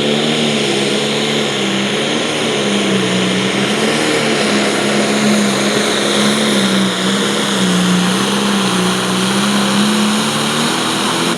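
John Deere 5020 light limited pro stock pulling tractor's diesel engine running flat out under the load of the pulling sled, its pitch holding steady with slight wavering. Right at the end the engine note drops sharply as the throttle comes off and the pull finishes.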